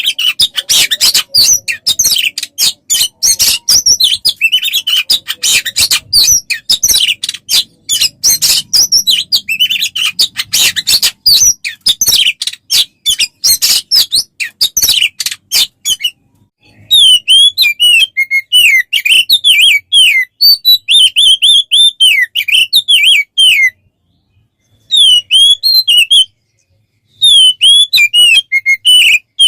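Recorded songbird song of the kind played as a tutor track to train an oriental magpie-robin. A dense, rapid chattering run fills the first half; after a short break come clear whistled notes gliding up and down, interrupted twice by short pauses near the end.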